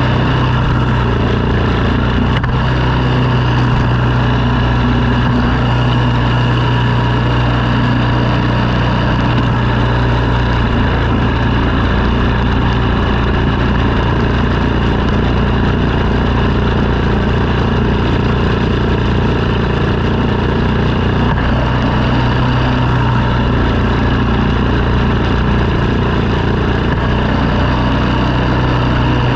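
Engine of a snow-clearing machine running steadily under load, a continuous low hum with no breaks.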